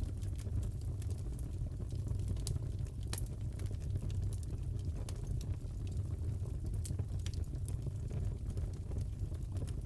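Crackling fireplace: a steady low rumble of burning logs with scattered sharp pops and crackles at irregular intervals.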